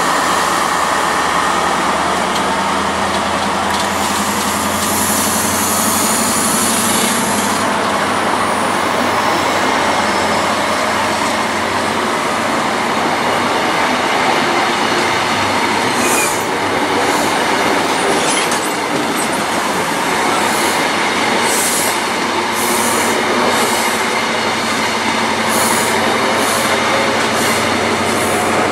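A First Great Western HST (InterCity 125) passing close by: a steady rush of coach wheels on the rails. From about halfway through come repeated sharp clicks, roughly one a second, as wheels run over rail joints.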